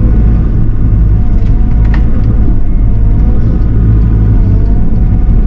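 Diesel engine of a heavy machine running steadily close by: a loud, low drone whose pitch wavers slightly. There is a single short click about two seconds in.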